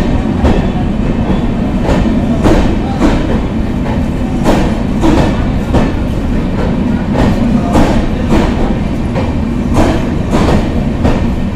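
Passenger train coaches rolling past along a station platform: a steady rumble of steel wheels on rail, with regular clickety-clack as the wheelsets cross rail joints, roughly every half second.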